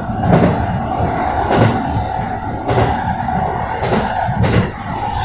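JR West 223-series electric train running at speed, heard from inside the cab: a steady low rumble of wheels on rail with a constant hum and a few irregular knocks.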